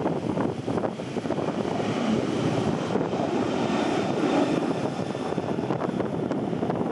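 Jet airliner engines running at a distance, heavily masked by gusting wind buffeting the microphone despite its windjammer.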